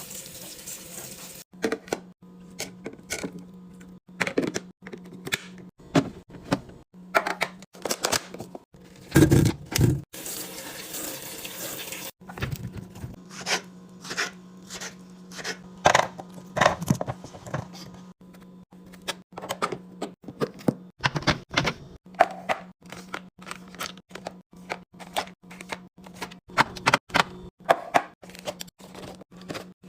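Repeated knocks, taps and clatter of containers and food items being handled and set down while a fridge is organized, over a steady low hum. Water runs briefly near the start and again about ten seconds in.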